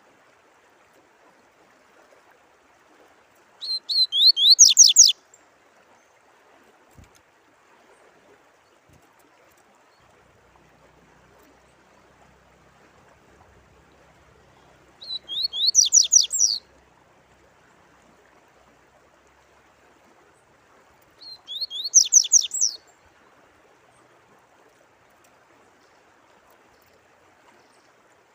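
A songbird sings the same short phrase three times, each about a second and a half of quick high notes that fall in pitch. Faint running water trickles steadily underneath.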